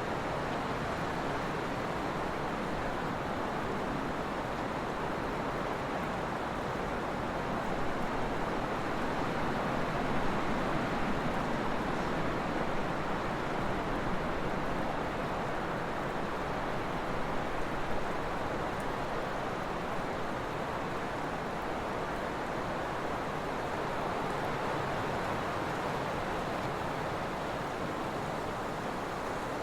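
Steady trade winds blowing, a continuous rushing that swells a little in the middle of the stretch.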